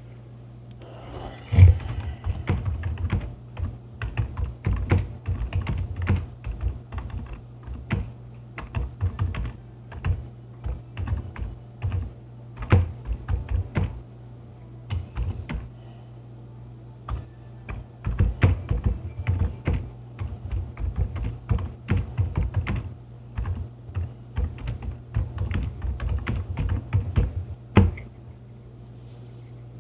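Typing on a computer keyboard in quick irregular runs of keystrokes, pausing briefly about halfway through, over a steady low hum.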